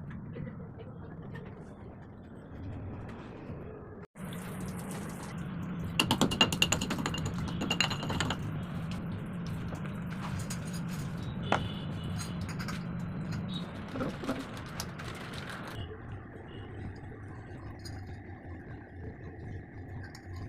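Rapid mechanical clicking and ratcheting from hand tools at work on a gas geyser installation, densest about a third of the way in, with scattered clicks later over a steady low hum.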